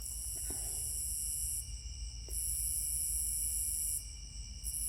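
Insects trilling in long high-pitched pulses, each about a second and a half long with short gaps between them, over a low steady hum.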